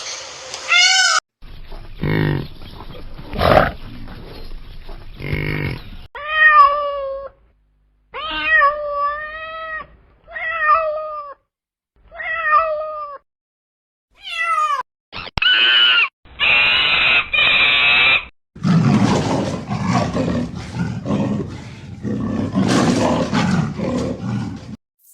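A string of different animal calls edited back to back, several of them cat-like meows with rising and falling pitch. It ends with a longer, noisier stretch.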